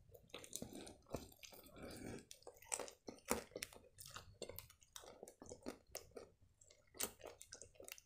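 A person chewing a mouthful of store-bought chicken shawarma in a lavash wrap, softly, with many short wet smacks and clicks of the mouth at an irregular pace.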